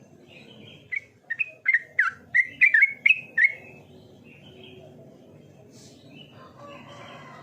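Sooty-headed bulbul (trucukan) singing: a quick run of about nine short whistled notes in the first half, each note bending in pitch.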